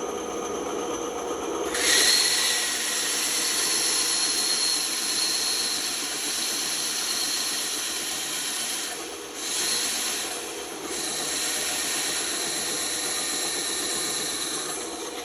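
Band saw running, and about two seconds in its blade starts cutting into wood: a steady, loud hissing rasp over the motor's hum that eases briefly twice midway.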